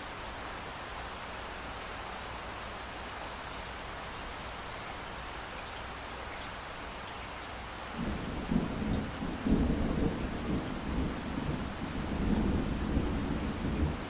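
Steady rain falling. About eight seconds in, a low rumble of thunder starts suddenly and keeps rolling, swelling and easing several times.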